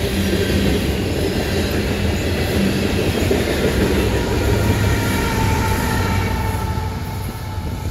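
Mixed freight train passing close by: steel wheels running on the rails under autorack, tank and covered hopper cars, loud and steady. A mid-train diesel locomotive goes by near the end.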